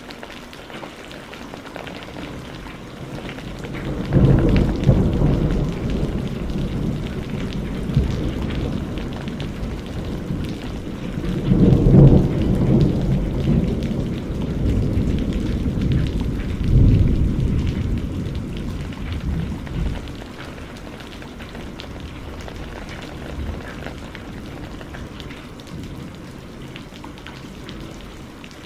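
Steady rain with rolling thunder: deep rumbles swell about four seconds in, loudest around twelve seconds, again near seventeen, then die away, leaving the rain alone.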